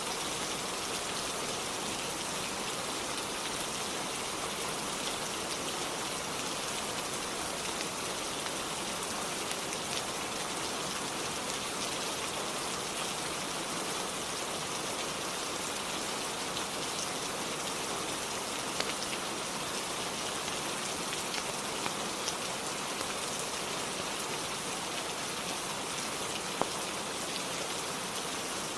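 Steady rainfall, an even unbroken hiss of rain on a surface, with a few isolated faint sharp ticks in the second half.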